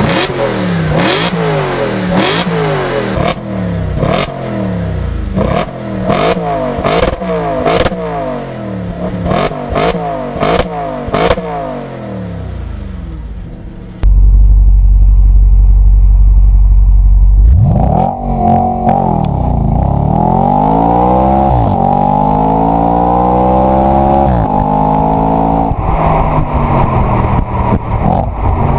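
Audi RS4 B8's 4.2 FSI V8 exhaust being blipped again and again, the revs shooting up and falling back with sharp crackles and pops between blips. About fourteen seconds in, a very loud deep rumble takes over for a few seconds, and then the engine goes through slower, longer rising and falling revs.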